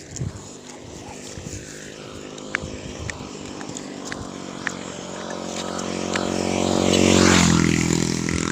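A motor vehicle passing close by: its engine hum grows steadily louder, peaks about seven seconds in, then drops in pitch as it goes past. A few faint sharp clicks come earlier.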